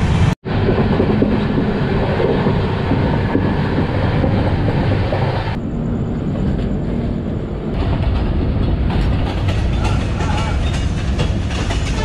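Indian Railways express passenger coach running on the track: a steady rumble of wheels on rails with rushing air, heard from an open coach doorway. Clicking of the wheels over rail joints grows more frequent in the second half as the train runs in toward a station.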